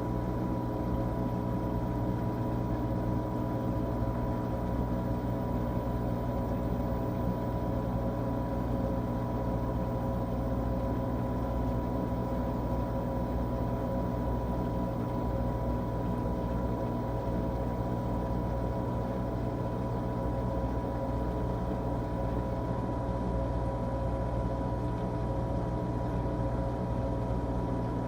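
A 13-year-old LG Tromm WD-CR101C front-loading drum washing machine running steadily late in its quick-wash cycle. It gives an even motor hum with a steady whine that does not change.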